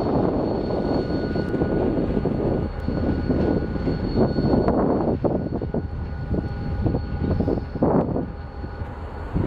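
GP40 diesel locomotive running as the freight train moves slowly on the wye, a steady loud rumble with a faint high whine over it.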